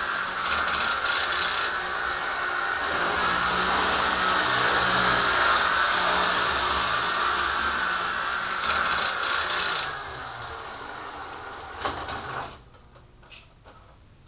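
Model train locomotive's small electric motor and gears running with a loud, steady grinding whir. It weakens about ten seconds in and cuts off sharply near the end, leaving only a few faint ticks.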